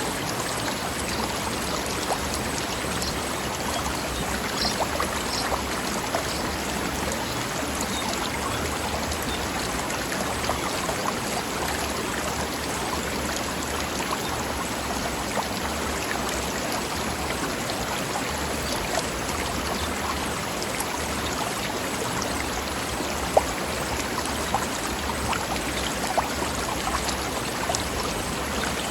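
Stream flowing and splashing over rocks in a steady, babbling rush, with a few sharper splashes in the second half.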